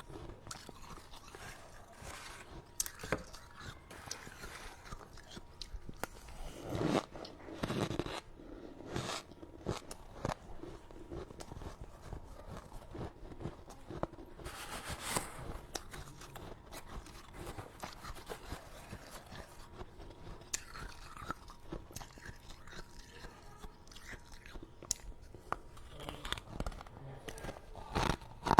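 Close-miked biting and chewing of freezer frost (snow ice): a continuous run of soft, powdery crunches, with a few louder bites scattered through.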